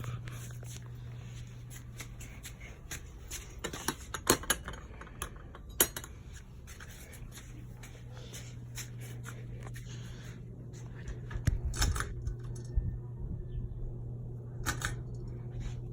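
Regency ceiling fan running on high: a steady low motor hum, with scattered irregular clicks and light knocks over it.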